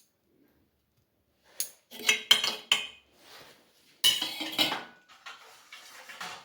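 Kitchen utensils and dishes clattering: sharp clinks and knocks in two busy bursts, about a second and a half in and again about four seconds in, with a few lighter clinks after.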